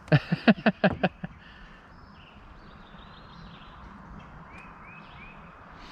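Birds chirping faintly over a steady outdoor hiss, with three short arching chirps near the end. A person's voice sounds in a few quick loud bursts in the first second.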